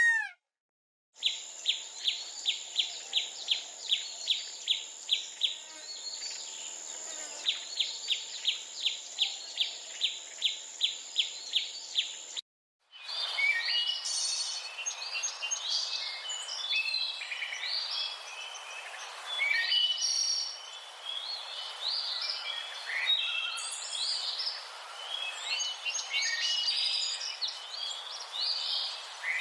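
Bird-sound soundtrack for cats: first a rapid series of sharp chirps, about three a second, over a steady high tone; then, after a brief break about halfway through, many birds chirping and trilling together.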